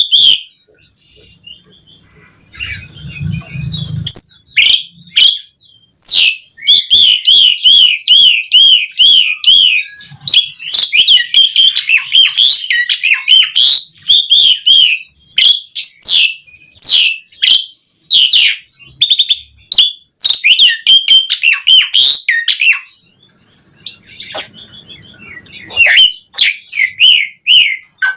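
A jalak suren (pied starling) singing a long, varied song of fast whistles and chatter, with runs of quickly repeated wavering notes. The song pauses briefly near the start and again about three-quarters of the way through.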